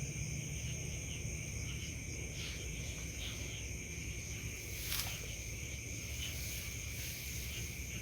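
Steady insect chorus, two continuous high-pitched buzzing tones with a faint pulsing, over a low rumble, with a single sharp click about five seconds in.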